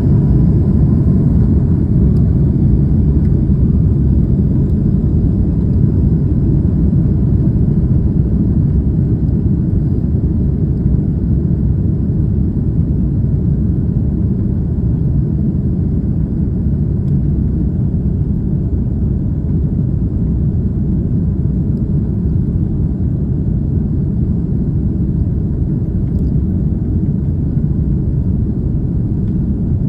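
Airbus A330-300 jet airliner during take-off: a loud, steady low rumble of engines and airframe.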